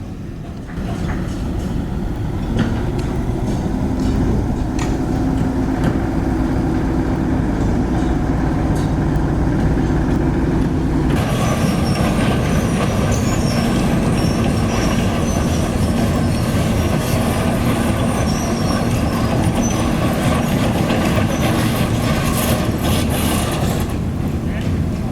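A heavy construction machine's diesel engine running steadily, getting louder over the first couple of seconds. About halfway through, a harsher hissing noise with faint high squeaks joins it, then drops away near the end.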